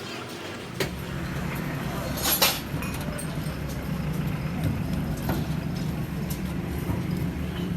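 An engine running steadily with a low, fast-pulsing hum, with a few sharp metallic clinks over it.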